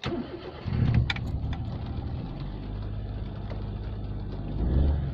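Perodua Nippa's small three-cylinder petrol engine running, not running well: it misfires in the damp, which the owner puts down to a worn distributor. There is a louder patch about a second in and a swell near the end.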